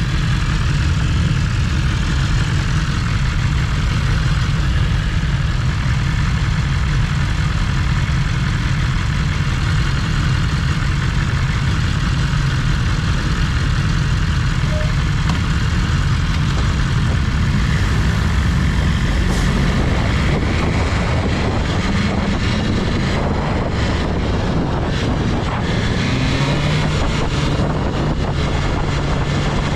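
BMW S1000RR's 999 cc inline-four running steadily during a ride. About two-thirds of the way in, rushing wind noise builds and the engine note rises as the bike picks up speed.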